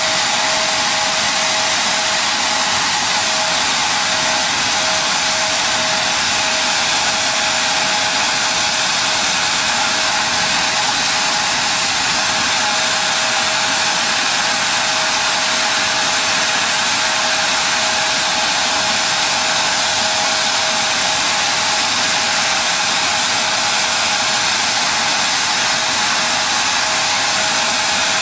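Steady, loud rushing noise from running machinery with a constant mid-pitched whine over it, unbroken throughout.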